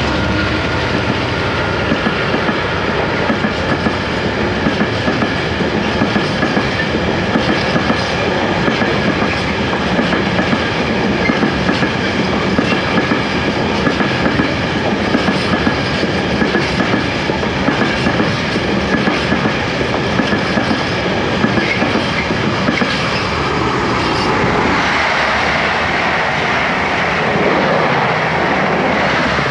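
Passing train on the main line: steady wheel-on-rail rumble with a regular clickety-clack over the rail joints. About 25 seconds in it turns to a louder rushing hiss as an HST high-speed train passes close by.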